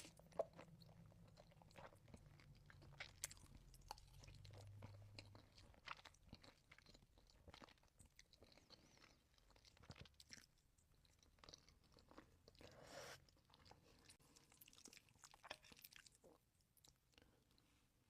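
A person chewing food close to the microphone, with scattered crisp crunches and bites.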